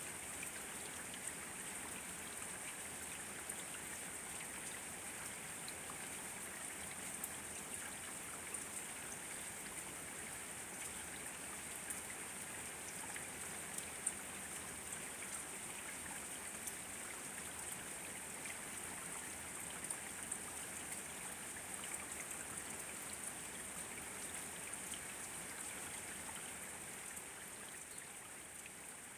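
Steady rain: an even hiss with many small drops ticking throughout.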